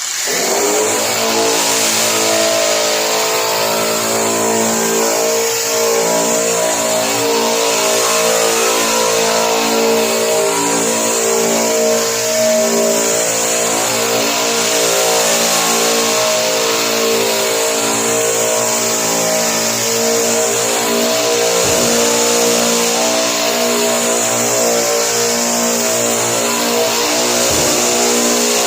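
Electric drum sander running steadily as it strips paint from a steel car hood: a motor whine under a loud abrasive hiss.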